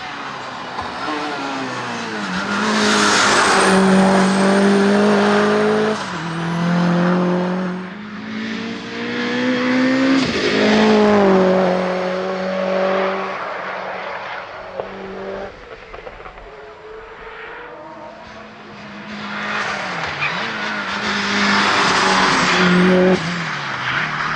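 Mitsubishi Evo 8 hillclimb car's turbocharged 2-litre four-cylinder engine running hard. Its pitch climbs and drops sharply several times at gear changes or lifts, and the sound swells and fades as the car nears and passes.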